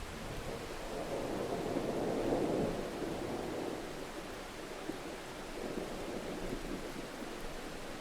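Steady rain with a roll of thunder that swells about two seconds in and fades away, then a fainter rumble near the end.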